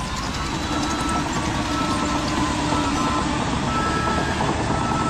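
Reversing beeper on an RC construction machine, short beeps repeating about once a second over the steady running noise of its motors and gears.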